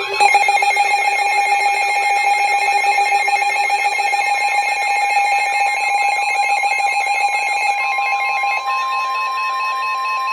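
Weather radio alert alarm: several steady tones sounding together with a fast warble, loud and continuous. Near the end the lower tones drop out and a single higher steady tone carries on alone before cutting off.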